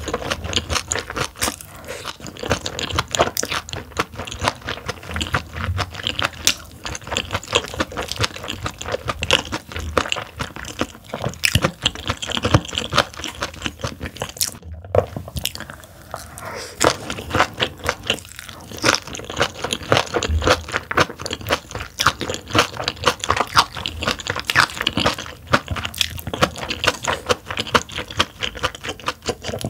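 Close-miked chewing and crisp crunching of a mouthful of steamed yellow stingray with raw water parsley (minari): a rapid, dense run of crunches, broken by a brief silence about halfway.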